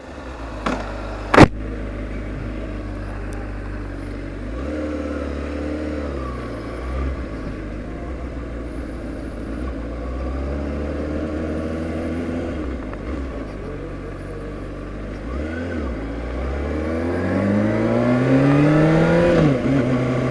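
Honda CBR600RR inline-four engine running at low speed, then accelerating near the end with a rising pitch, a drop at a gear change and a rise again. A sharp knock sounds about a second and a half in.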